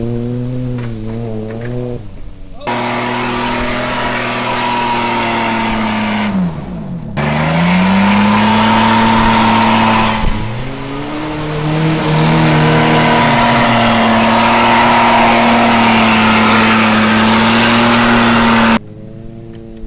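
Car engine revving hard and held at high revs under a loud rushing noise, typical of wheels spinning through mud. The pitch drops and climbs back up twice, and the sound changes abruptly several times.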